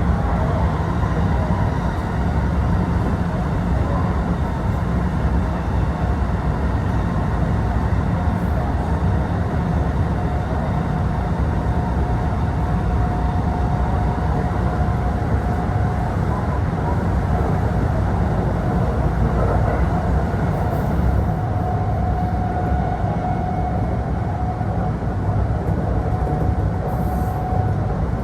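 Kintetsu Osaka Line local train running between stations, heard from inside the passenger car: a steady rumble of wheels on rail, with a faint steady whine.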